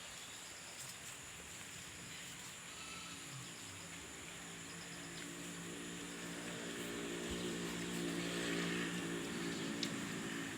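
A motor engine humming steadily, growing louder from about the middle to a peak near the end and then easing off, as a passing or approaching vehicle would. A steady high insect-like buzz runs underneath.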